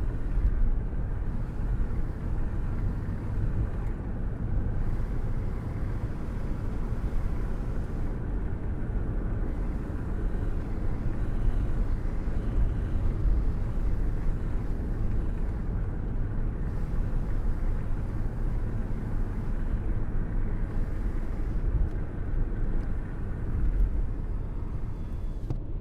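Car cruising at a steady speed: a constant low rumble of road and wind noise, with no rise or fade in level.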